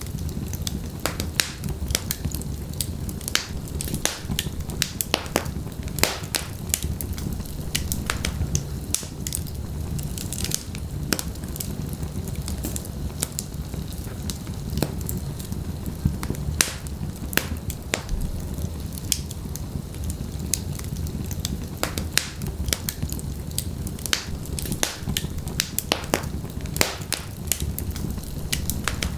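Wood fire burning in a fireplace: logs crackling and popping with irregular sharp snaps over a steady low rumble of the flames.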